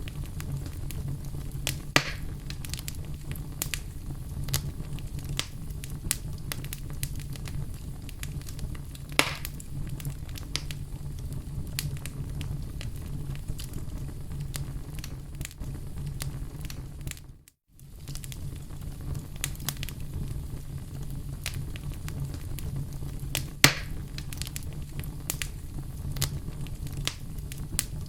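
Wood fire crackling in a fireplace: a steady low rumble of flames under constant small crackles, with three louder pops. The sound drops out for a moment about two-thirds of the way through.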